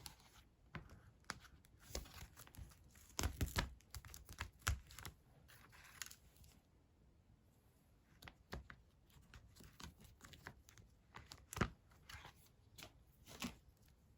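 Paper-crafting materials handled on a tabletop: scattered clicks, taps and short rustling, tearing-like sounds of paper and plastic, with a brief pause about halfway through.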